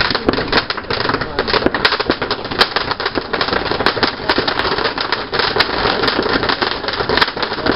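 Fireworks crackling: a dense, rapid string of small pops and cracks that goes on without a break.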